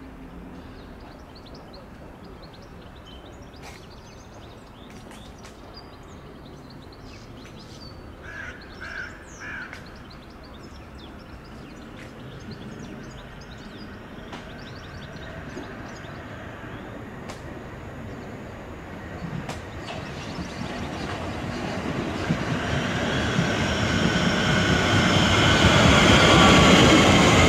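An electric multiple-unit train approaching on the line. Its running noise and whine grow steadily louder through the second half and are loudest near the end. Before that, quiet station ambience, with a bird calling three times about nine seconds in.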